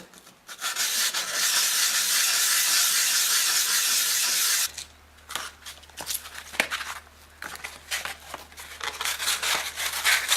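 Old brass faucet parts being cleaned: a steady hiss for about four seconds, then irregular scraping and small clicks of the parts being scrubbed and handled.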